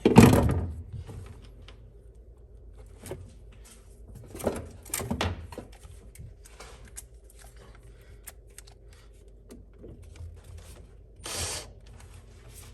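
Hand tools working on the small screws of a fuel pump assembly: a loud clunk at the start, then scattered light metal clicks and taps with a few short scrapes.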